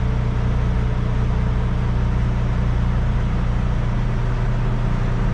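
Kenworth T680 semi truck's diesel engine idling steadily, a constant low drone.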